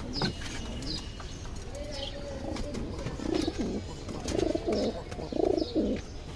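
Domestic pigeons cooing in repeated low phrases from about three seconds in, over short high chirps from budgerigars.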